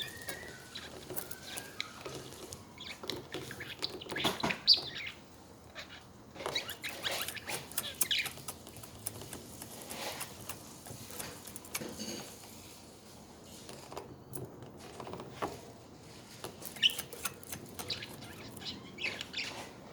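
Budgerigars chattering softly: irregular short chirps and warbles, mixed with scattered small clicks and taps, the sharpest one a little under five seconds in and another near the end.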